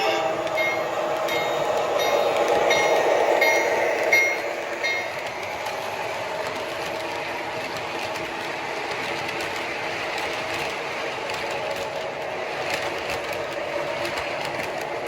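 A train running, with a bell ringing at an even beat of about one stroke every two-thirds of a second for the first five seconds, then only the steady running noise of the train.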